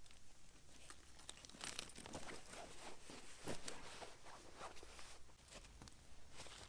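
Irregular rustling and crinkling, a string of short soft crackles with no steady rhythm.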